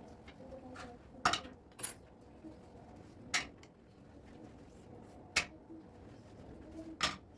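Household items being handled and set down: five sharp clinks and knocks a second or two apart, with faint background in between.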